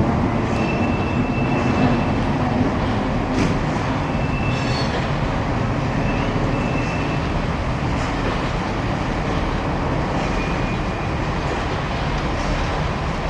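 A train running on the rails, a steady rumble with a few brief faint high-pitched squeals and a couple of sharp clicks.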